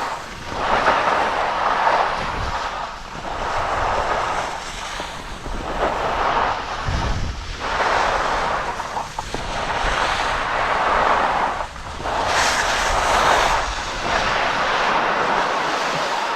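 Skis scraping and hissing over packed snow through a series of turns, swelling and fading about every two seconds. Wind rumbles on the microphone underneath.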